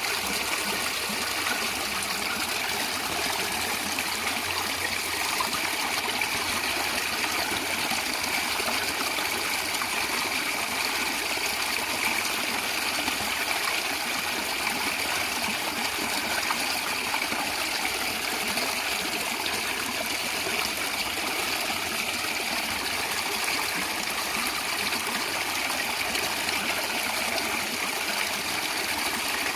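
Natural running water of a stream gurgling steadily, an even unbroken rush.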